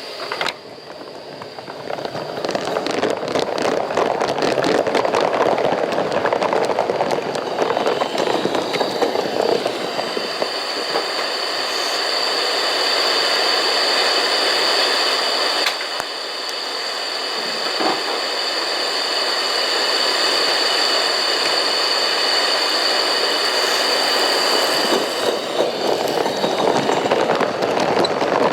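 Coal-fired steam locomotive working a cut of cars, its exhaust beating rapidly at first. From about ten seconds in a steady high-pitched tone runs over the noise for some fifteen seconds before fading.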